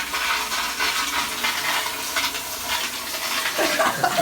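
Toilet flushing: a steady rush of water swirling and draining through the bowl.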